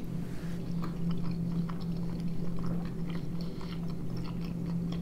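Two people chewing mouthfuls of boiled pelmeni, with soft wet smacking and small clicks, over a steady low hum.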